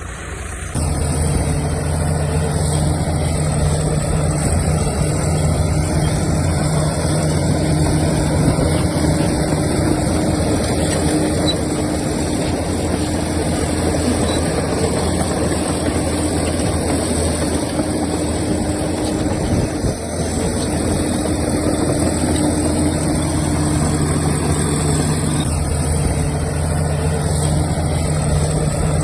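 Heavy diesel earthmoving machinery running steadily, its engine tones low and constant, with a short dip in loudness about 20 seconds in.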